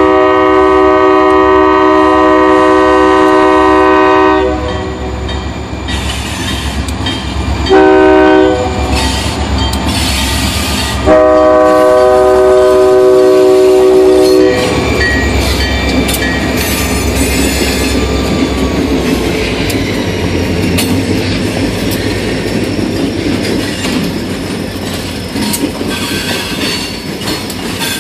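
Diesel freight locomotive's air horn blowing for a grade crossing as a multi-note chord: a long blast, a short one, then another long one. The locomotive then runs past and tank cars follow, their wheels clattering over the rail joints with some squealing.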